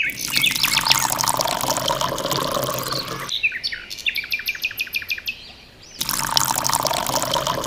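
Water poured from a small steel cup splashing into a shallow metal bowl, in two pours with a pause of about three seconds between them. Birds chirp throughout.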